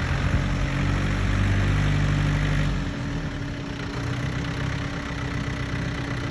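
The Yanmar 33 hp diesel engine of a John Deere 970 compact tractor running. It slows to a lower, quieter idle about three seconds in.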